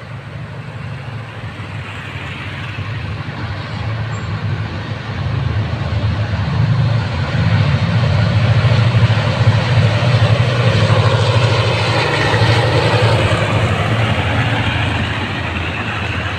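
Diesel-hauled container freight train approaching and passing, growing louder over the first several seconds. The locomotive's engine drone carries through as the container wagons roll by on the rails.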